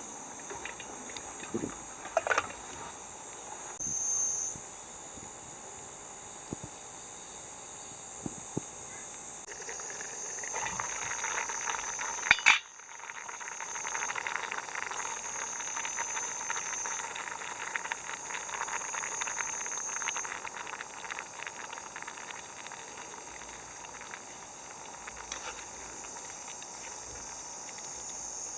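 Food cooking over a campfire, sizzling and bubbling with a dense fine crackle, while insects drone steadily at a high pitch; one sharp click about halfway through.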